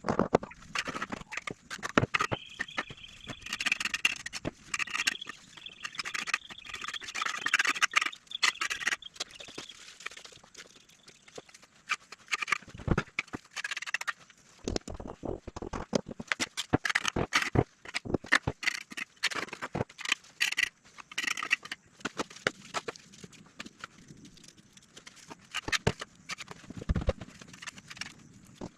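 Irregular knocks and clicks, many in quick succession. A thin high tone sounds over them in the first third and stops before the middle.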